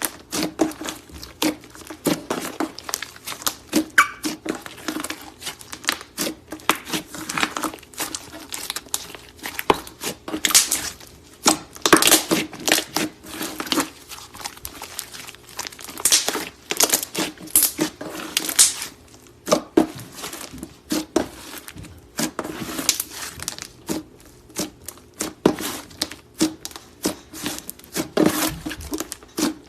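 Clay slime being squished and stretched by hand: a continuous, irregular run of sticky crackles and pops, with louder clusters every second or so.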